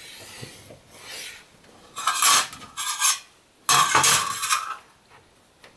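Marker and rule rubbing and scraping on a thin aluminium sheet while lines are marked out: several short scratchy strokes, the longest lasting about a second around four seconds in.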